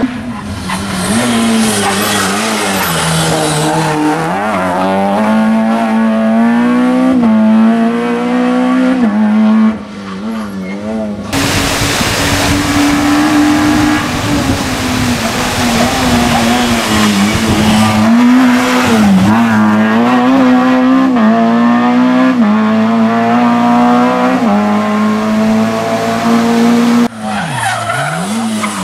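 Peugeot 106 rally car's engine revving hard at high revs, its pitch repeatedly dipping and climbing again as it shifts gear and lifts for corners.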